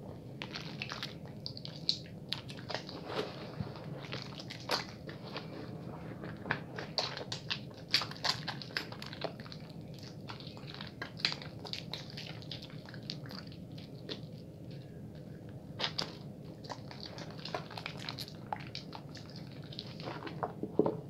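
A bar of soap being lathered quickly between wet hands: a wet, squishing rub of soap and foam with many small irregular clicks and crackles.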